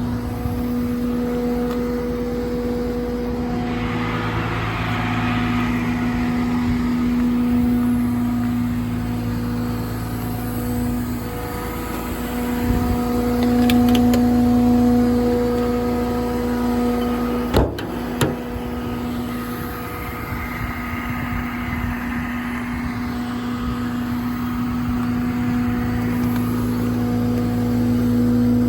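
Kenworth T370 mechanics truck's PACCAR PX-8 diesel engine running at a steady idle with an even hum. Two sharp clicks come a little past halfway.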